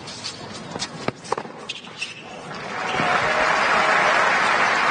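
Tennis ball being struck and bouncing in a rally, a few sharp pops, then crowd applause and cheering swelling up about two and a half seconds in and stopping suddenly at the end.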